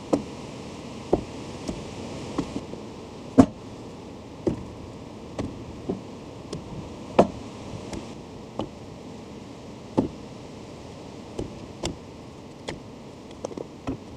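A series of sharp knocks at irregular intervals, roughly one a second, over a steady background hiss.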